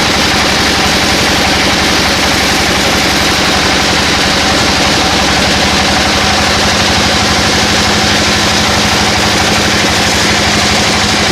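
Sawmill machinery running steadily: a loud, even engine drone with a fast low pulsing and a broad hiss over it.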